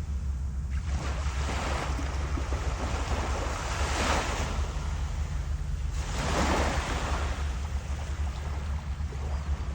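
Waves washing in, with wind rumbling on the microphone. Two louder washes swell up about four and six and a half seconds in.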